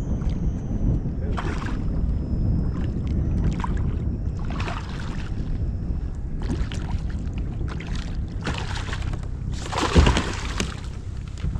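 Water sloshing and splashing against a kayak in several short bursts, the loudest about ten seconds in, over a steady low rumble.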